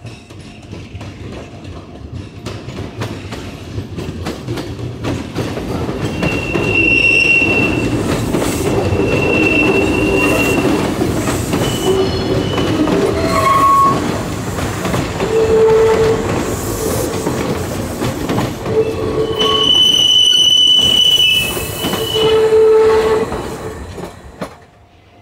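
Kintetsu electric commuter train moving through the station, its wheels clattering and squealing at several high pitches on and off. The sound builds over the first few seconds and drops away shortly before the end.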